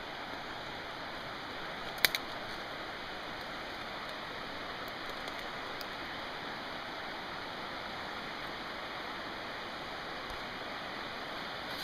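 Steady rush of flowing stream water. About two seconds in, a sharp double click cuts through it.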